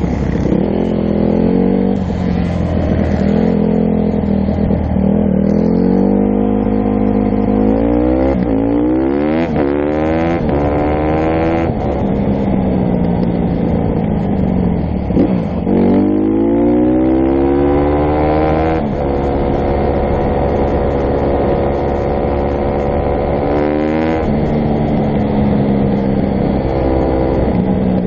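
Dirt bike engine being ridden hard, its pitch climbing repeatedly and dropping back as it accelerates through the gears, with steadier stretches in between.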